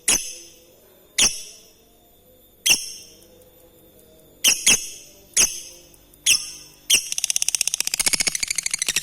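Lovebird giving sharp single chirps a second or so apart, then about seven seconds in breaking into a fast, rattling chatter of rapid repeated high notes: the long 'ngekek' song.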